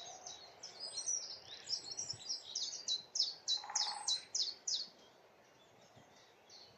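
Common chiffchaff singing its repeated high 'chiff-chaff' notes, about three or four a second, with other birdsong tangled in for the first couple of seconds. Twice there is a faint, brief rattle lower down that sounds like a great spotted woodpecker drumming in the distance.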